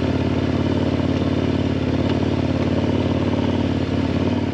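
KTM 1090 Adventure R motorcycle's 1,050 cc LC8 V-twin engine running at a steady speed while riding, with an even, unchanging engine note.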